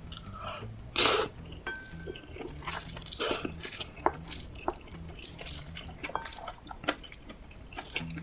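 Close-miked eating sounds: wet chewing and lip smacks with scattered small clicks, and one louder noisy burst about a second in.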